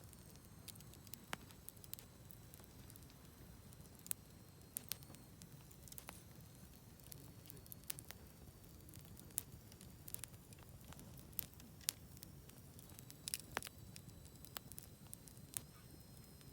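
Wood fire burning and crackling, with sharp irregular pops scattered throughout over a faint low steady rumble.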